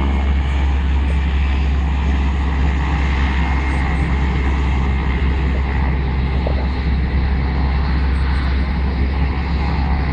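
Turbine aircraft running loudly and steadily, a deep rumble under a broad rushing noise.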